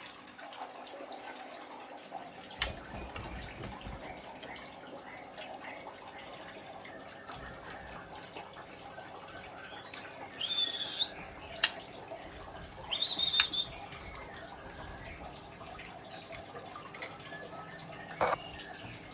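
White-rumped shama giving two short chirps, about ten and thirteen seconds in, over a faint background with a few sharp clicks.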